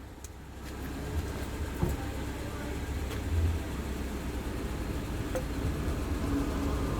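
Suzuki motorcycle engine idling roughly with a misfire, one of its spark plugs not firing. A steady, uneven low rumble, rising slightly in level about a second in.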